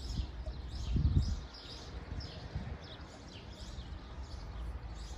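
Birds chirping in many short, high calls, with a low, dull thump about a second in.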